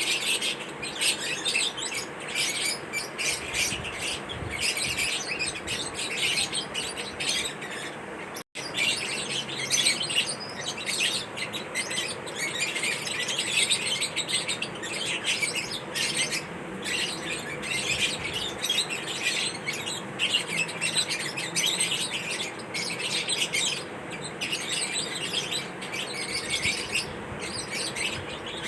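Lovebirds chirping busily, with many rapid, overlapping high calls in a steady chatter. The sound cuts out for an instant about eight seconds in.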